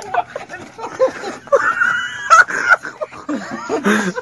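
People's excited shouting, with one long, high yell about one and a half seconds in.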